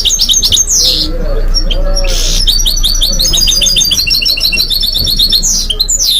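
A goldfinch × canary mule singing loud and close. It gives high sweeping notes, then a fast trill of about ten repeated notes a second lasting around three seconds, then more sweeps near the end.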